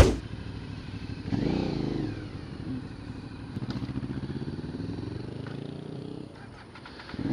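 Motorcycle engine heard from the rider's seat, opening with a sharp click: a short rev about a second and a half in, then a slowly rising note as the bike pulls away from a traffic light, easing off near the end.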